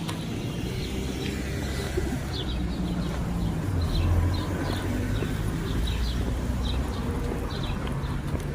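Small birds chirping in short, repeated high notes over a steady low rumble of a vehicle engine, which swells about halfway through.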